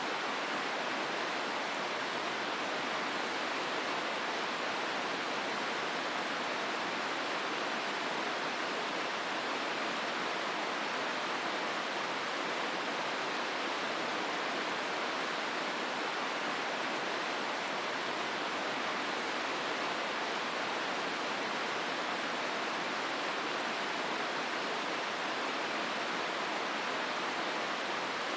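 Hozu River water rushing steadily through the gorge: an even, unbroken hiss of flowing water that does not change.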